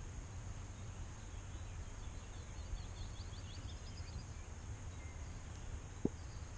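Outdoor ambience with a low steady rumble, a small bird singing a brief rapid trill about three seconds in, and a single sharp knock near the end.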